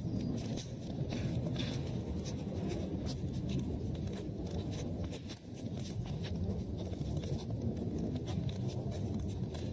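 Wood fire burning in a fireplace: a steady low noise from the flames with frequent sharp crackles and pops.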